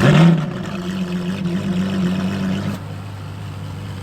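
Ferrari LaFerrari's V12 engine blipped sharply, then held at a raised, steady engine speed for about two and a half seconds before dropping back to idle.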